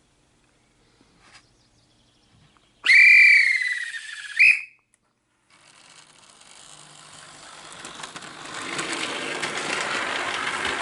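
A railway guard's whistle blown as the signal to dispatch a train: one long blast about three seconds in that sags slightly in pitch, ending in a short sharp peep. After it, a steady hiss builds up over several seconds.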